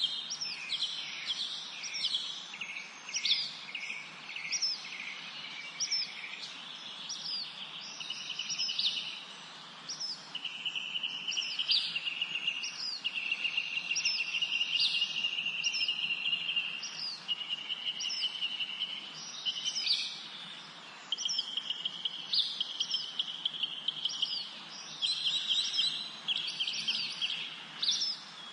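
Several songbirds singing together. One repeats a short, high falling note more than once a second, while others give rapid trills lasting one to a few seconds, over a faint steady background hiss.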